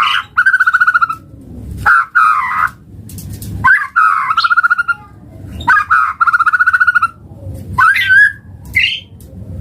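White-rumped shama singing: four rapid, buzzy rattling trills of about a second each with short gaps between them, then a few short sliding whistled notes near the end.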